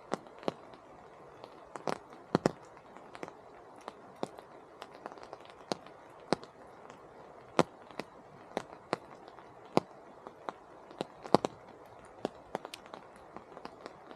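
Large raindrops dripping from the forest canopy, landing close by in sharp, irregularly spaced taps of uneven loudness over a soft, steady rain hiss.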